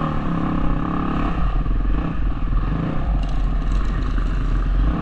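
Motocross bike engine heard from the rider's helmet camera, revving up and easing off several times with a constant low rumble underneath.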